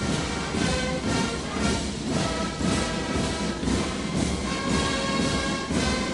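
Military band playing a march, with held tones over a steady beat of about two strokes a second.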